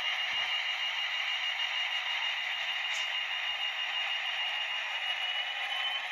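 Atlas HO scale SD26 model locomotive running with its sound decoder playing the diesel engine sound through the model's small speaker. It is a steady drone with a whine that rises slightly near the end, after the throttle has been stepped up two notches.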